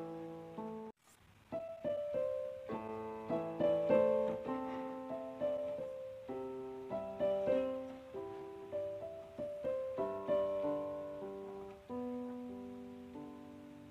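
Background piano music: slow melody and chords, each note struck and fading, with a brief break about a second in.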